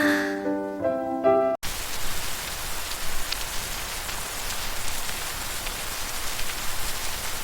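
Soft piano music for about a second and a half, then it cuts off abruptly and steady rain takes over, an even hiss with a few single drops audible.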